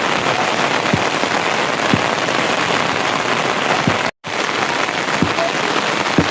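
Steady, loud rain falling on a surface, with scattered heavier drips landing singly every second or so. The sound drops out completely for a split second about four seconds in.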